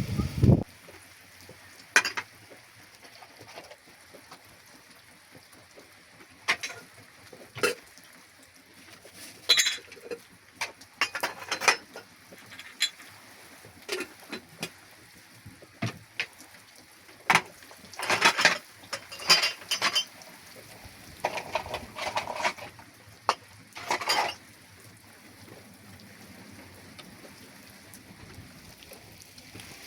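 Irregular clinks and knocks, like dishes and utensils being handled, scattered over a faint steady background, busiest in the second half.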